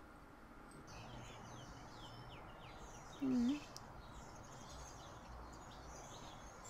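Faint bird chirping: a run of short, quick, falling chirps that comes and goes. About three seconds in, a brief low voice-like hum is louder than the chirps.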